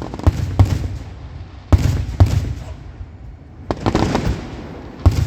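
Fireworks display: aerial shells bursting in quick clusters of sharp bangs, each trailing off in a rumbling echo, with a fresh group every second or two.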